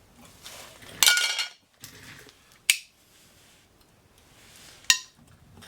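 Three sharp metal clinks with a short ring, about a second in, near the middle and near the end, the first the loudest: a steel hand tool striking and prying at the front wheel hub of a 1966 Ford F100 to work a part loose.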